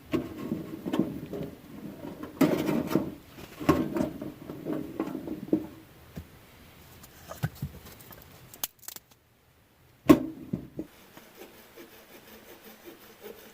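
Rustling, knocking and clicking from hands working firewood and a titanium tent woodstove while it is being lit, busiest over the first six seconds and thinning to scattered ticks. About nine seconds in the sound drops out completely for a second, then resumes with a sharp click.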